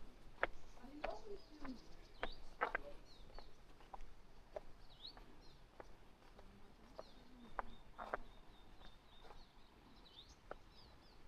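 Small birds chirping in the forest, short high calls repeating throughout, with a thin steady high note in the middle of the stretch. Irregular sharp clicks or taps stand out above the birdsong, and faint voices murmur in the distance.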